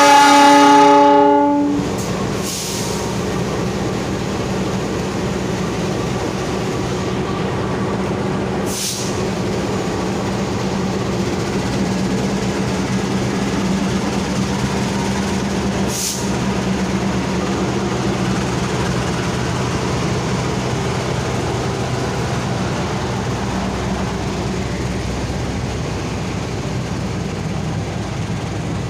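A train horn blows in one long blast that ends about two seconds in. Then a train runs by with a steady rumble and a low engine hum, and two short hisses come partway through.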